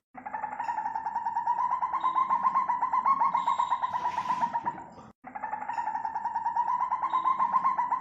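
African civet calling: a fast, even trill of rapid pitched pulses that runs without a pause, breaks off abruptly about five seconds in, and starts again straight away.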